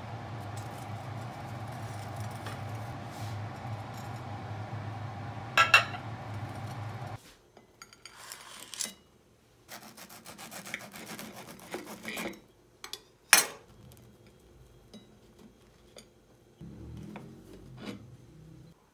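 A table knife sawing through a crisp toasted sandwich on a china plate: rasping crunches, with sharp clinks as the blade meets the plate. Before that, under a steady hum, comes a clatter as a wooden spatula lifts the sandwich from a frying pan, and near the end the plate slides across the counter.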